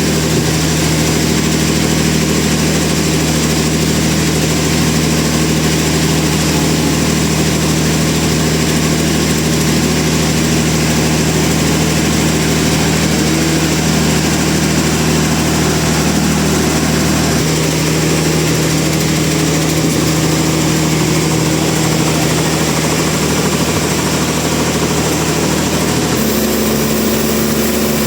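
Sawmill machinery engine running steadily with a constant hum, its pitch shifting slightly about two-thirds of the way in and again near the end.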